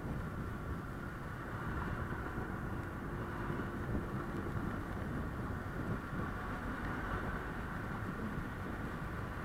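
Honda Click 125i scooter's single-cylinder engine running steadily on the move, mixed with road and traffic noise.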